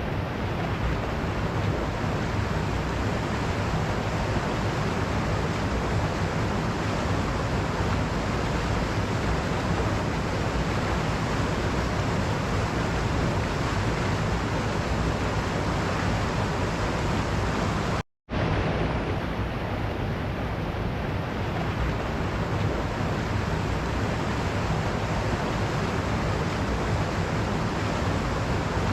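Waterfall rushing in a steady, even roar. The sound cuts out for a split second about two-thirds of the way through, then resumes unchanged.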